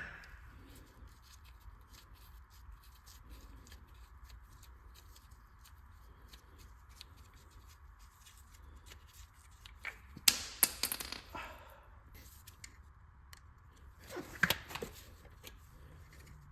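Socket wrench working on the VTEC solenoid of an engine: light, scattered metal clicks throughout, and two louder bursts of clatter about ten and fourteen seconds in, as the socket is fitted and the part is broken loose.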